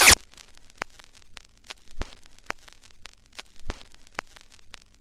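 Electronic music cuts off at the start, leaving sparse, irregular crackling clicks over a faint hiss, like record surface noise, a few clicks a second.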